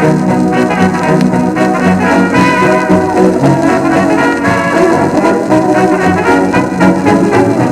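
Old 78 rpm record of a dance band playing an instrumental passage, with brass (trumpets and trombones) leading the tune over a steady rhythm.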